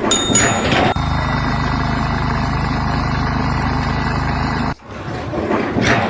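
An engine running steadily for a few seconds, between abrupt cuts to other short clips.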